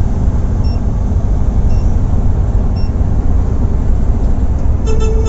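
Volvo B8R coach running at speed, a steady low engine and road rumble, with three short high beeps about a second apart. A horn starts sounding near the end.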